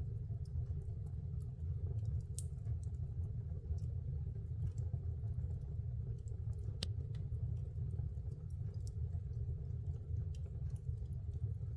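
Wood fire burning in a fireplace, crackling with irregular sharp pops over a steady low rumble; the loudest pop comes about two thirds of the way through.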